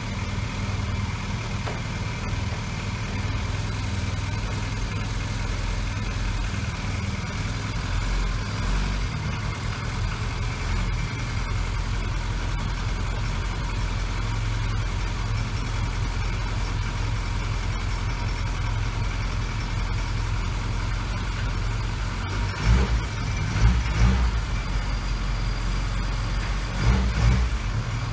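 Classic Mini's A-series four-cylinder engine running steadily at low revs. A few short thumps stand out a little after two-thirds of the way through and again near the end.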